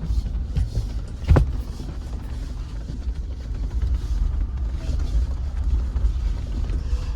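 Jeep rumbling along a bumpy, rocky dirt trail, with one sharp knock from a jolt about a second in.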